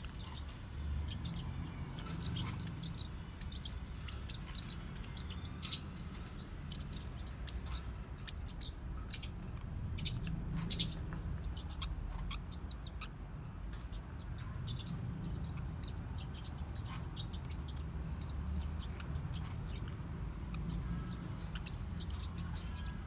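Forpus parrotlets chirping: scattered short, high chirps, with a few louder calls around six seconds in and again around nine to eleven seconds in.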